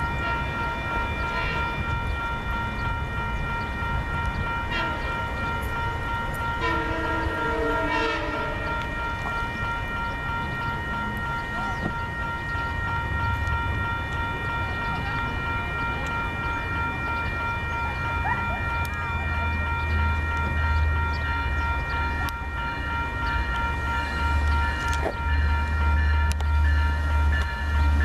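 Long Island Rail Road diesel push-pull train approaching. Its horn sounds briefly about seven seconds in, and a deep engine rumble grows louder from about halfway on, over a steady high ringing.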